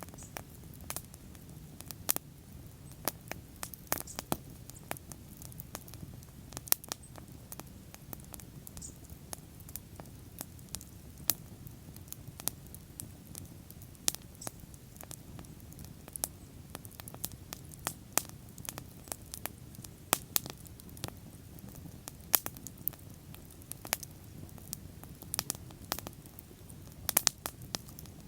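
Wood bonfire crackling, with frequent irregular sharp pops and snaps over a steady low rumble of the flames.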